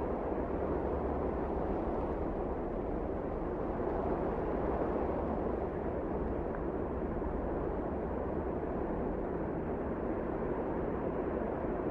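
Wind blowing steadily, a low, even rushing noise without distinct gusts or breaks.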